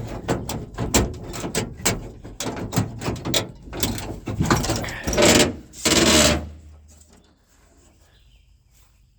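A quick run of rubbing, scraping and knocking noises, with two longer, louder rasping scrapes about five and six seconds in, dying away after about seven seconds.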